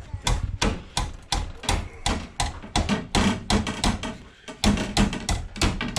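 Rapid, even knocking, about three sharp strikes a second, like hammer blows.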